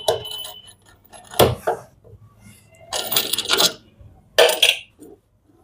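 Small steel nuts and a 10 mm socket clinking and rattling as the nuts holding a washing machine's direct-drive motor are taken off and handled: a sharp click, then two short bouts of metal clinking.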